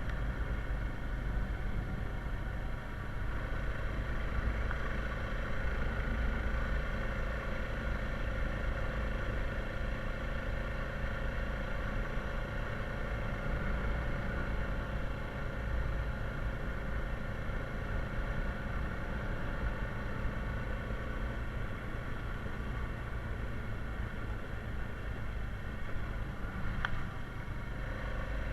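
Honda Rubicon 520 ATV's single-cylinder four-stroke engine running steadily while riding along a trail, with a short click near the end.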